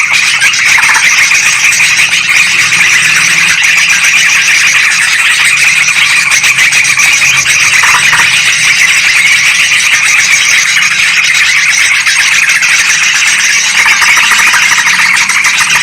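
Yellow-vented bulbuls and sooty-headed bulbuls chattering in a dense, unbroken, agitated chorus: a loud bird-trapping lure recording of their alarm-like calls.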